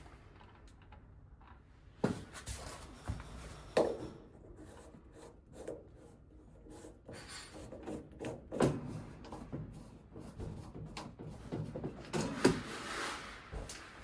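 Scattered knocks, clunks and rubbing, as of things being handled and moved, with sharper knocks every few seconds and a stretch of rustling near the end.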